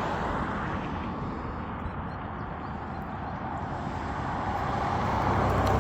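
Steady road traffic noise, with a vehicle's rumble growing louder near the end as it passes.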